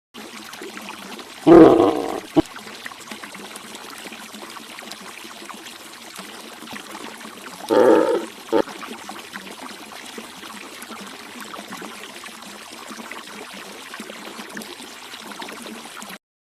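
Two short animal calls about six seconds apart, each followed by a sharp click, over a steady rushing background noise.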